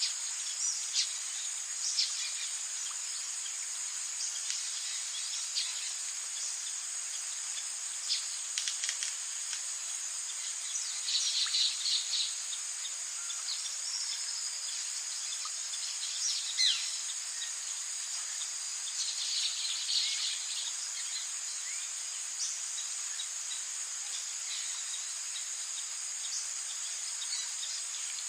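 Rainforest night chorus: a steady high drone of insects and crickets, with scattered short bird or frog chirps and a couple of brief clusters of calls.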